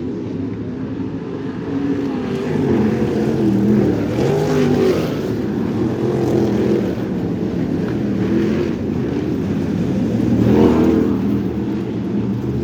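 Crate sprint car V8 engine running under race load, its pitch rising and falling again and again as the throttle is opened and closed through the corners.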